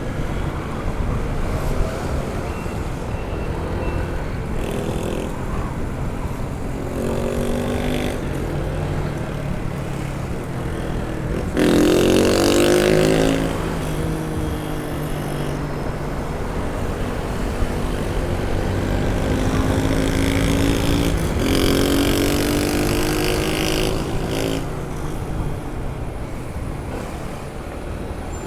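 Honda ADV 160 scooter's single-cylinder engine running on the road, its pitch rising and falling with the throttle several times. Wind rushes on the microphone over it, with two louder surges of rushing noise, one about midway and one near three quarters through.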